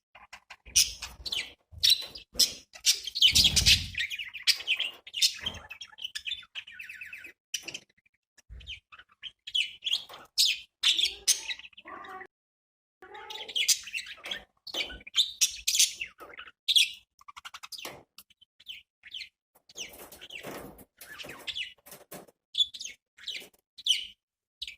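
Budgerigars chirping and warbling: a run of quick, irregular chirps and chattering with short pauses, plus a few low thumps around the first few seconds.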